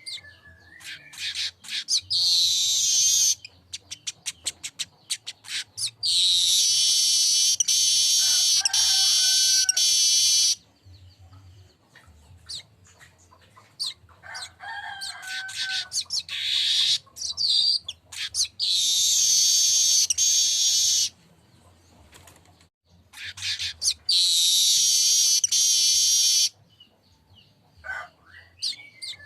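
Streaked weaver (manyar kembang) singing: runs of quick dry ticks that build into long, wheezy, sizzling buzzes of one to four seconds, about four songs in turn.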